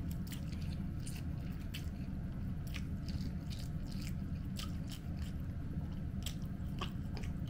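A person chewing and eating food close to the microphone: irregular wet mouth clicks and smacks over a steady low hum.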